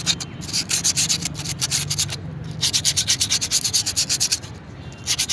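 Sandpaper rubbed fast back and forth over a two-wheeler's drum-brake shoe lining, in quick runs of strokes with two short pauses, scouring off the carbon glaze that makes the brake whistle.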